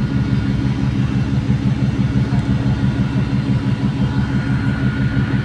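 Express ship's diesel engines running steadily, with a faint steady whine above the low engine tone.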